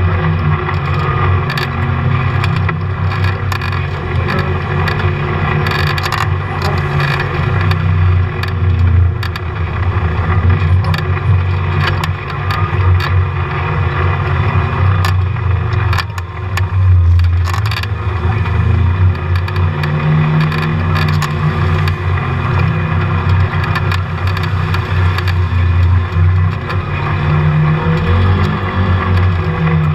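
Polaris RZR side-by-side running while being ridden: a steady low engine drone that swells and eases several times, with frequent short clicks or knocks on top. This is the noise the owner is recording.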